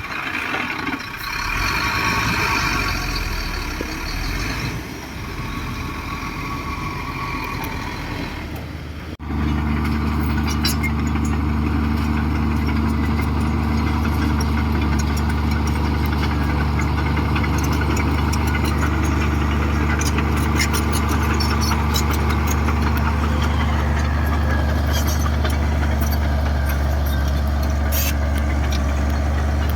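Heavy earthmoving machinery's diesel engine. For about the first nine seconds it is mixed with higher-pitched whining and rattling. Then it switches abruptly to a loud, steady engine drone running at constant speed.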